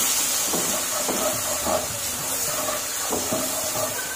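Ginger-garlic paste and ground spices sizzling in hot oil in a nonstick kadai, a steady hiss, while a wooden spatula stirs and scrapes through the pan in repeated strokes.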